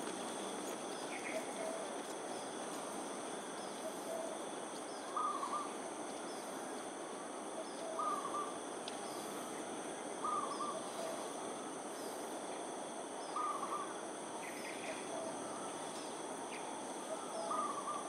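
A bird repeating a short call, five times about every two to four seconds, over a steady outdoor hiss and a high, even insect drone.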